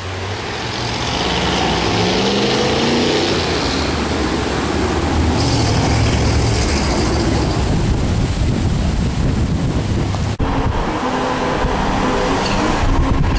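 A car driving, its engine note rising as it speeds up over the first few seconds, then a steady engine and road rumble, with a brief dip about ten seconds in.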